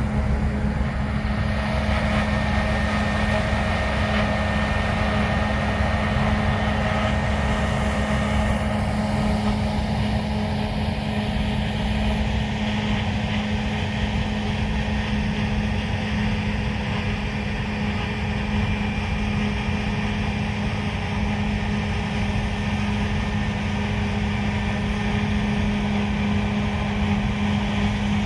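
Heavy harvest machinery running steadily in a wheat field: a deep engine hum with fainter, higher whining tones over it, the low rumble easing slightly partway through.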